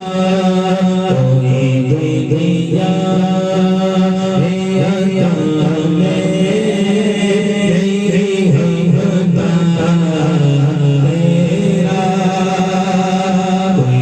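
Naat singing: a voice sings a slow, wordless melodic opening with bending, ornamented pitch over a steady held drone.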